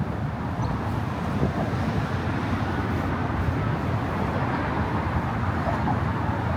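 Steady road traffic noise from cars on the bridge roadway, a continuous low rumble.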